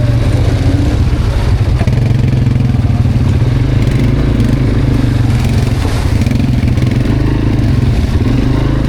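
Quad bike (ATV) engine running steadily while being ridden, with some rattling over the trail.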